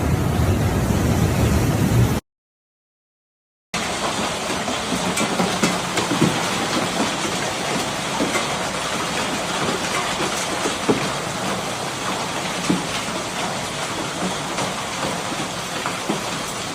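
Hailstorm: a dense, steady hiss of hail and rain coming down, dotted with scattered sharp knocks of hailstones striking hard surfaces. It follows a brief cut to silence about two seconds in; before the cut there is a louder, low rumbling storm noise.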